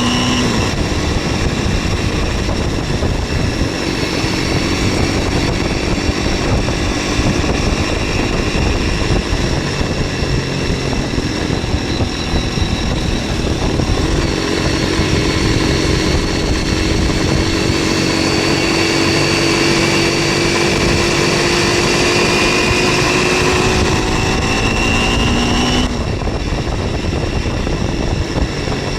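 MZ 125 SX scrambler's single-cylinder four-stroke engine running under way, with wind rush on the microphone. The engine note climbs slowly in the second half and drops sharply near the end, as when the throttle is closed or a gear changes.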